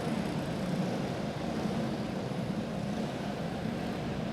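Racing karts' single-cylinder four-stroke clone engines running together in a steady drone, as the field circles slowly under caution.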